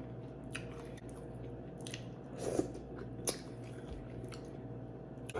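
Someone eating: biting and chewing food with scattered wet mouth clicks and smacks over a faint steady hum.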